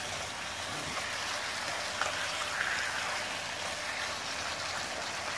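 Pork belly pieces sizzling in a dark sauce in a non-stick wok while a spatula stirs them: a steady frying hiss with a couple of light spatula ticks about two seconds in.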